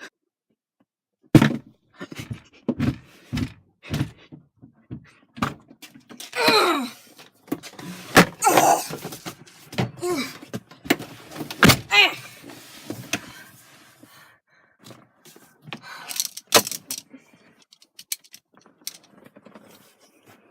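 Irregular knocks and thunks, a dozen or more, with a few short wordless vocal sounds about a third of the way in.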